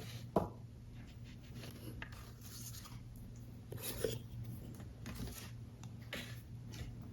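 Paper and card parts of a paper model being handled and fitted together: scattered rustles and light clicks, with a sharp tap about half a second in and another about four seconds in.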